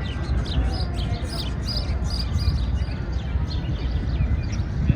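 Small birds chirping over and over above a steady low rumble of city park ambience.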